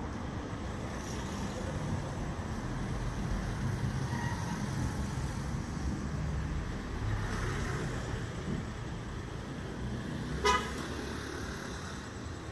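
Steady low rumble of a motor vehicle driving on a road, with one short horn toot about ten seconds in.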